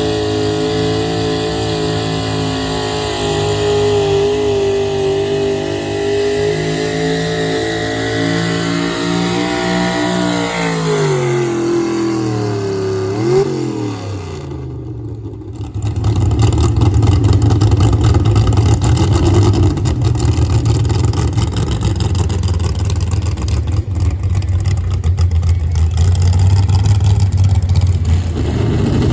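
Competition pulling vehicle's engine running hard at steady high revs, then its pitch slides down as it throttles off just under halfway through. After a brief dip, a louder, rougher engine at full throttle takes over, rising in pitch near the end.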